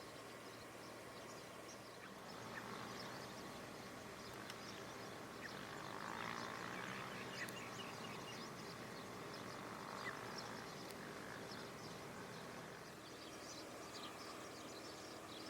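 Faint outdoor wetland ambience full of many short, high chirps from distant birds. The calls grow a little louder about six seconds in and again near ten seconds.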